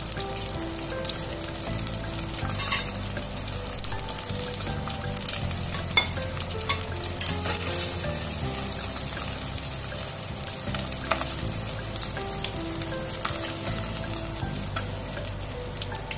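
Chicken sizzling as it fries in hot oil in an enameled cast-iron pot, a steady crackling hiss. A few sharp clicks of metal tongs against the pot come through as the pieces are turned and lifted out.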